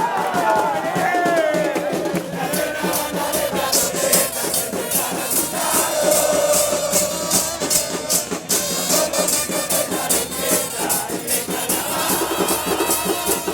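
Football supporters singing together over drums, with fast rattling percussion throughout.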